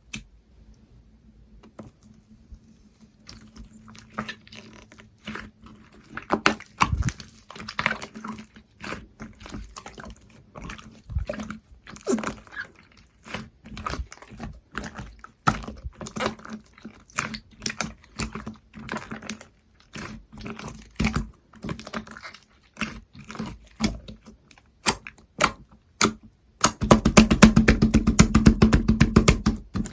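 Slime being squished and poked by hand, making a string of wet clicks and pops. About 27 seconds in, the pops come fast and dense for a few seconds as the slime is worked quickly.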